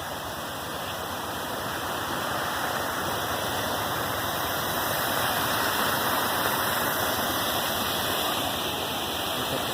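Waterfall rushing steadily, heard close up from its edge, swelling slightly a few seconds in.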